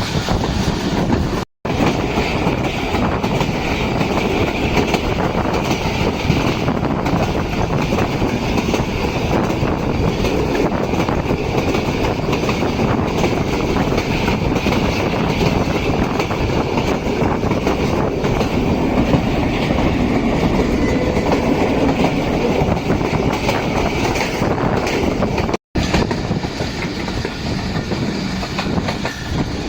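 A moving passenger train running along the track: a steady rumble of wheels on rails with clickety-clack from the rail joints. The sound is broken by two very short silences, one about a second and a half in and one near the end.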